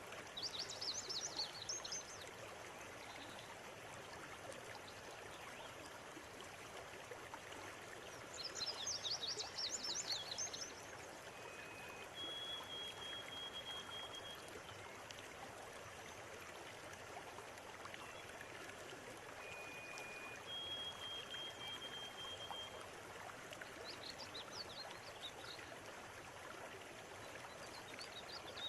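River water flowing steadily, with birds singing over it: two bursts of rapid, high chirping, about a second in and again about eight seconds in, a few long, even high notes in the middle, and fainter chirps near the end.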